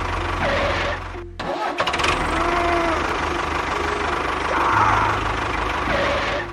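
Tractor engine running with a steady low rumble. It cuts out briefly about a second and a half in, then runs on.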